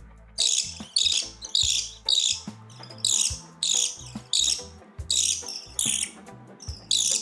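Budgerigar chicks' food-begging calls: harsh, high-pitched chirps repeated about two to three times a second while a chick is being hand-fed.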